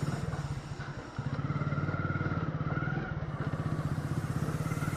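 Motorcycle engine running at idle, a steady fast chugging that grows louder about a second in.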